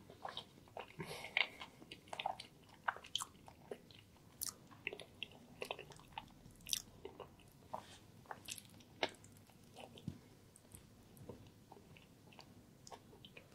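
Close-miked chewing and biting of a chicken and mushroom sandwich: an irregular run of small crisp crackles and wet mouth clicks.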